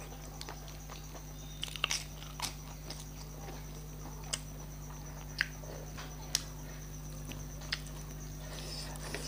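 A person chewing a mouthful of rice and dal with her mouth, with short wet clicks and smacks about once a second, over a steady background hum.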